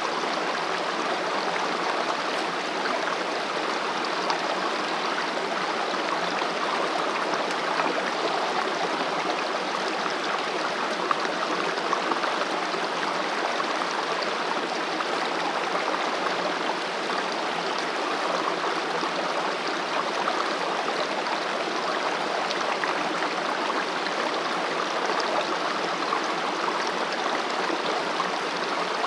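Mountain stream running over rocks, a steady rush of flowing water.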